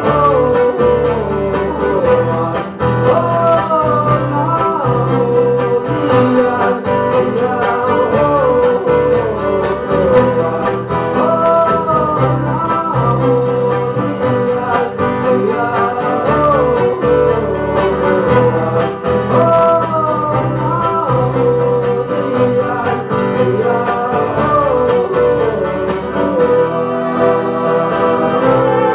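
Live band music with a male singer's voice carrying the melody over guitar accompaniment and a steady bass.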